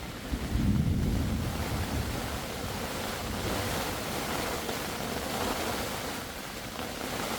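Heavy rain in a thunderstorm, with wind gusting against the microphone; a low rumble swells about half a second in and fades over the next second or so.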